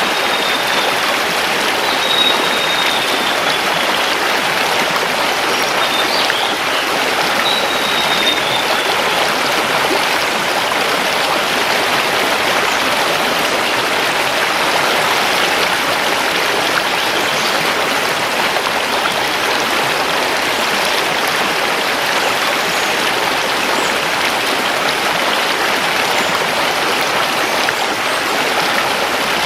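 Mountain river rushing steadily over stones. A few faint, high, short bird whistles sound over it in the first several seconds.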